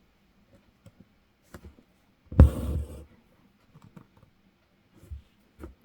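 Embroidery stitching: a needle popping through fabric stretched taut in a hoop and the thread drawn through, as faint clicks, with one louder click and a short rasp of pulled thread about two and a half seconds in.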